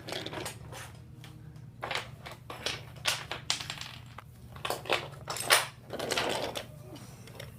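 Toy trains and track clattering as they are handled and pushed along: irregular clicks, knocks and scraping.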